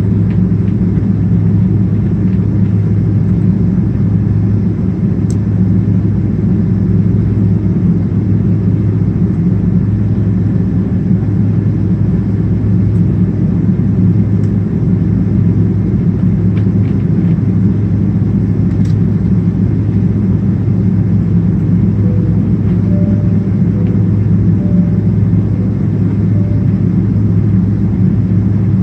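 Steady low drone of a Boeing 777-200ER's two General Electric GE90 engines and airflow, heard inside the cabin.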